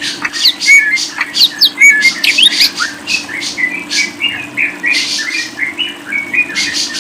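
A caged songbird chirping and twittering rapidly, a dense run of short, sharp notes and quick whistled sweeps, over a steady low hum.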